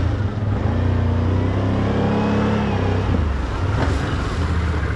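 Can-Am off-road vehicle's engine running under load, revving up and easing back off near the middle.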